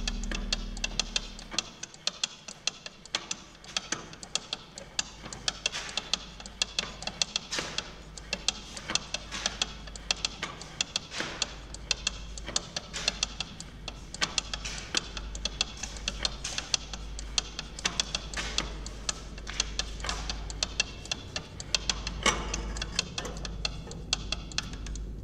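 Dense, irregular crackling clicks over a steady low hum, after a held musical note fades out in the first two seconds.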